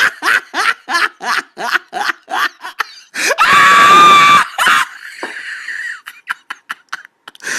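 A person laughing hard in quick repeated bursts, about three a second, breaking into a loud high-pitched shriek of laughter about three and a half seconds in, then trailing off into breathy wheezes.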